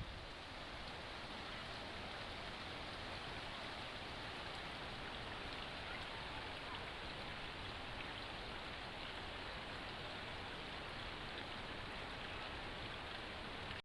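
Steady rush of flowing water from a mountain stream and waterfall, an even hiss with no change.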